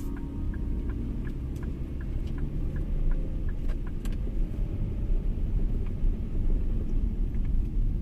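Steady low rumble of a car on the move, with faint regular ticking during the first few seconds.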